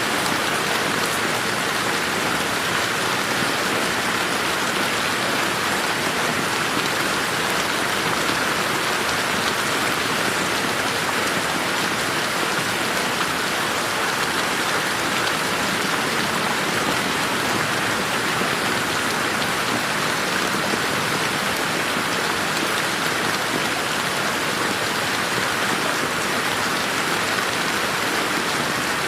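Steady rain falling on a garden: an even, dense hiss of drops with no thunder and no change in strength.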